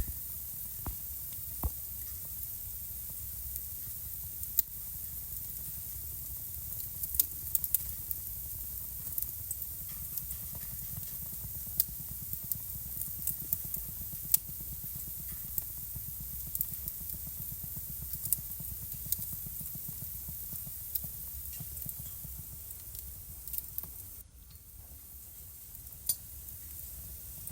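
Wood fire burning in a fireplace: irregular sharp crackles and pops over a steady low rumble and hiss. The background drops briefly quieter near the end.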